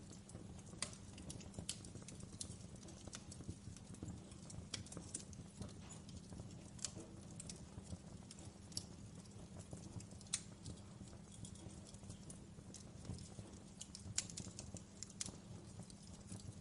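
Wood fire in a fireplace crackling, with sharp pops coming at irregular intervals over a steady low rumble.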